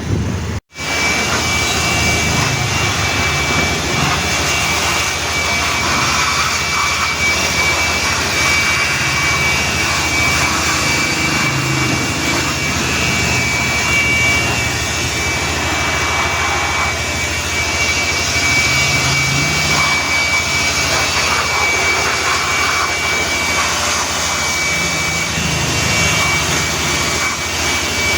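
Car wash machinery running steadily, a loud rushing noise with a constant high whine over it.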